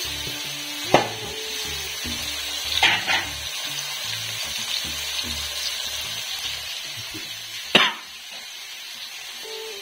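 Chicken pieces in masala frying in a steel pot, with a steady sizzle throughout. Three sharp knocks sound against it, about a second in, near three seconds, and the loudest near the end.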